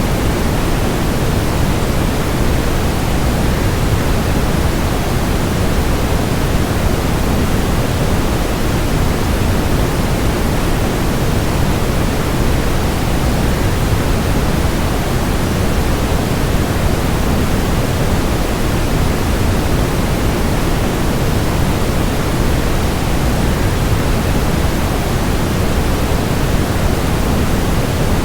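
Waterfall sound blended with a steady noise track: an even, unchanging rush, heavier in the low end.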